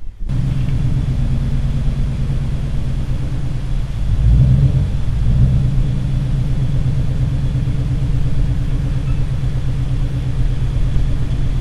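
Ford Mustang GT's 5.0 L Coyote V8 running at low speed with a steady exhaust rumble as the car rolls slowly out of the garage. It grows a little louder for a couple of seconds about four seconds in.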